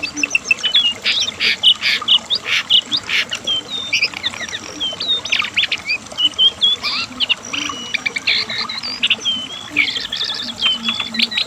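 Cingcoang coklat (jongkangan, the lesser shortwing) singing without a break: a rapid, varied string of high whistled notes, short chirps and buzzy trills.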